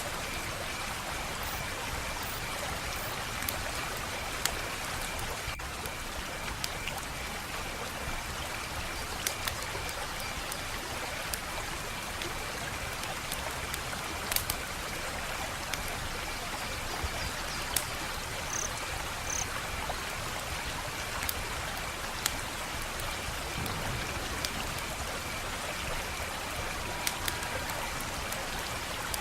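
Wood fire crackling steadily, with irregular sharp pops and snaps over a continuous hiss.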